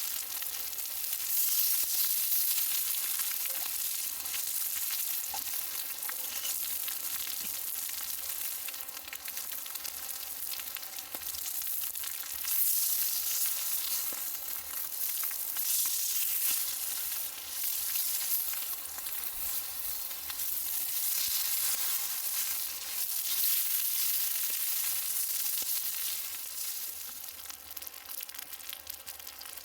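Food sizzling and frying in a pan, a dense crackling hiss that swells and eases.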